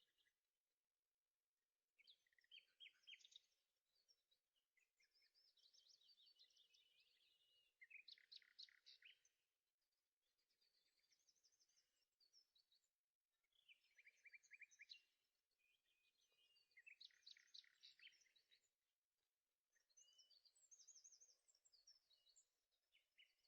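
Faint birdsong: a songbird singing short, varied phrases of rapid chirps and trills, one every two to three seconds.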